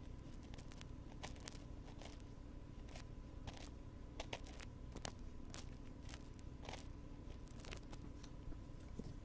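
Wooden ear pick scratching and clicking close on the microphone in irregular small strokes, over a steady low hum.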